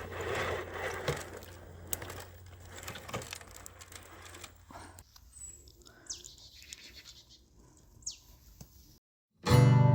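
Scattered clicks and rustling with a faint low hum that fades out about halfway, and two short falling bird chirps later on. Near the end the sound cuts to silence for a moment, then loud strummed acoustic guitar music starts.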